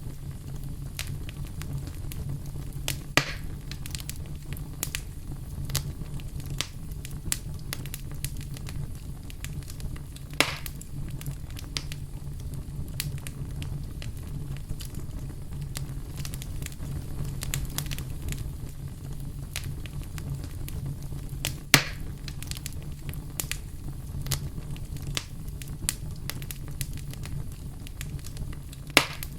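Campfire crackling: many small snaps over a steady low rumble, with four louder pops spread through it.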